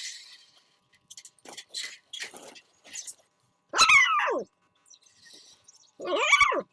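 A dog giving two loud, drawn-out calls that fall in pitch, about four and six seconds in, with a few faint short scratchy sounds before them.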